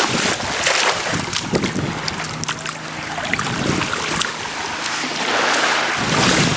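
Surf washing on the beach with wind buffeting the microphone, the rush rising and falling in surges. A faint low steady hum sits under it through the middle.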